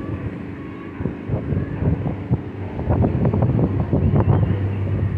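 Wind buffeting the microphone in irregular gusts. A low steady hum sits underneath and grows stronger about halfway through.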